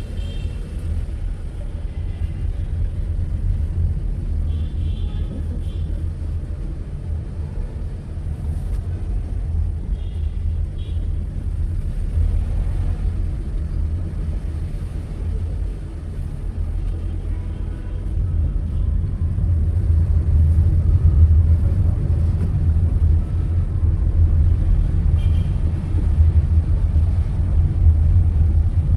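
Steady low rumble of a car driving through city traffic, road and engine noise building slowly, with a few faint short high tones now and then.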